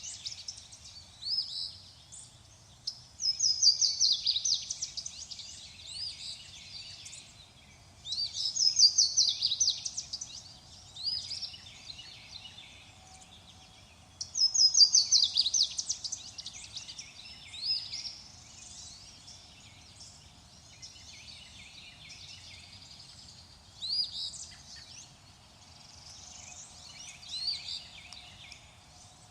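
Songbirds singing: one bird gives a loud, fast, descending trilled song three times in the first half, each about five or six seconds apart, with softer chirps from other birds in the second half over a faint low background.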